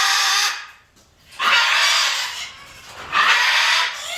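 Macaws squawking: three harsh, loud calls, the middle one the longest, with a brief quiet gap about a second in.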